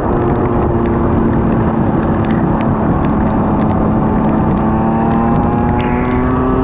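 Heavy rain as a steady hiss, with many scattered sharp drop ticks and a steady motor-like drone underneath whose pitch drifts slowly.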